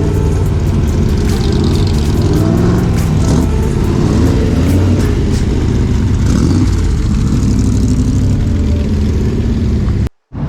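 Loud car engines revving, their pitch climbing and falling several times as the cars pull out. The sound cuts out abruptly for a moment near the end.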